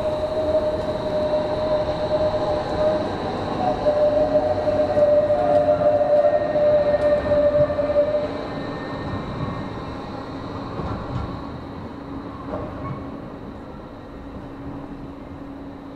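Tram passing on its rails with a steady whining tone over a rumble, loudest a few seconds in and then fading away as it moves off.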